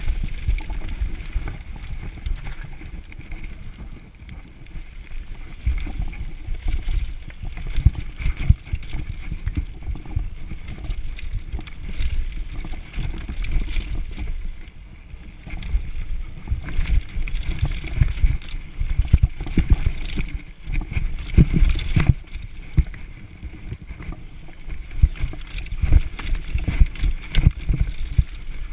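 Mountain bike riding down a rough downhill trail: continuous rattling and tyre rumble, broken by many irregular knocks and thuds as the bike hits bumps.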